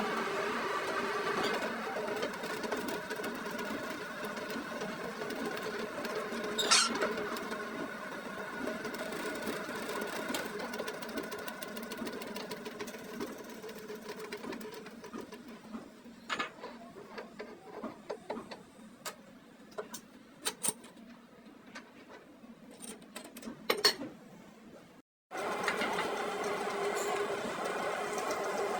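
Workshop machine running with a steady, pitched hum, fading after the first half into scattered sharp clicks and taps of metal work. The sound cuts out briefly near the end, then the hum returns.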